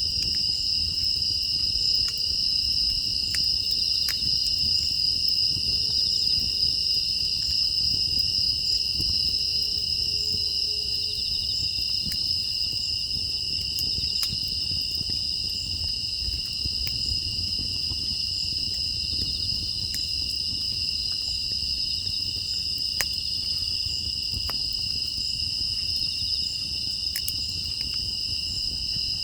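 Crickets and other grass insects trilling steadily in a shrill chorus at two high pitches. A few faint clicks are scattered through it.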